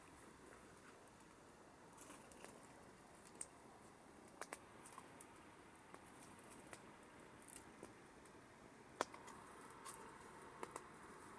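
Campfire crackling faintly: irregular sharp pops and snaps over a soft hiss, with one louder pop near the end.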